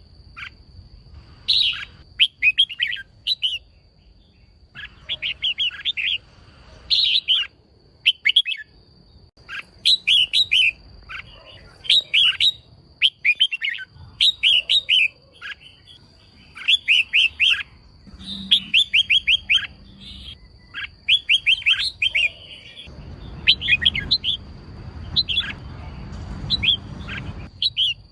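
Female red-whiskered bulbul calling in short bursts of quick, sharp chirps, one burst every second or two, over a faint steady high whine.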